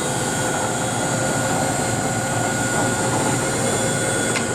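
X-axis power feed on a Cleveland knee mill running and driving the table, a steady motor whine with an even mechanical hum beneath it. A short click comes just before the end.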